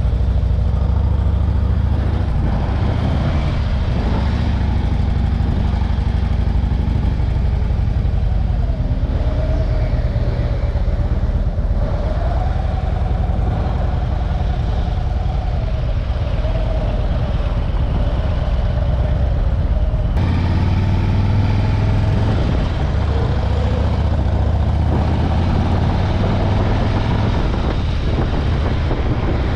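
Motorcycle engine running, its note wavering up and down, over a heavy low rumble of wind on the microphone.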